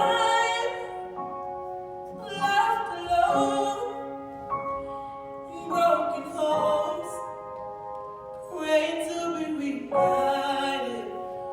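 Slow vocal music: a singer holds long notes with vibrato, one phrase after another, over sustained accompaniment.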